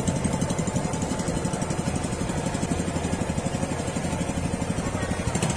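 Tour boat's engine running steadily underway, with a fast, even throb.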